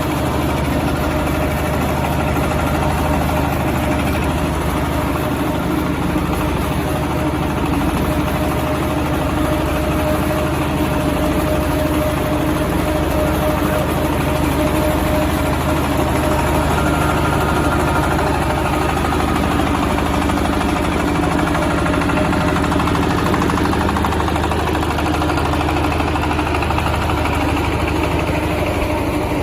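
Diesel engine driving a charcoal briquette extruder, running steadily at a constant speed.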